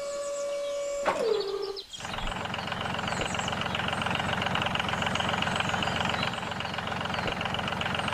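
A steady siren-like tone drops in pitch and stops within the first two seconds; then an engine starts up and runs steadily with a fast, rattling pulse.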